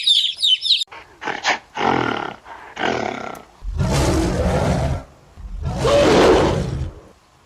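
Big cat roaring: a few short rough calls that build into two long, loud roars, the second the loudest. Bird chirping at the very start.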